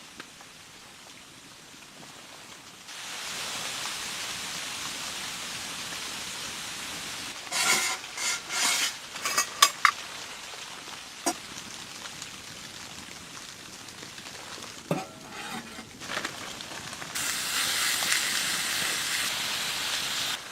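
Food sizzling in a hot pan. The sizzle starts suddenly about three seconds in, there are clinks and knocks of a utensil against the pan in the middle, and the sizzle grows louder near the end.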